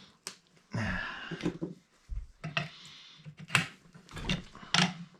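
Tools and metal parts being handled on a workbench: a string of sharp clicks, clinks and knocks with short rustling scrapes between them.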